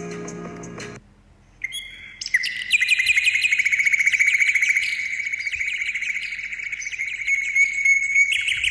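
Birds chirping in a dense, fast-trilling chorus, which starts a little after background music cuts off about a second in.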